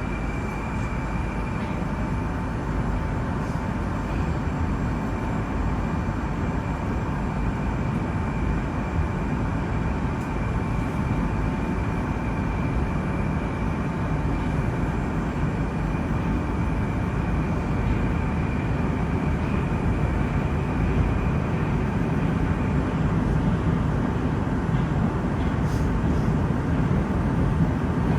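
Metro train running between stations: a steady rumble of wheels on track with two steady whines from the drive, the higher one fading out about three-quarters through as the sound grows slightly louder.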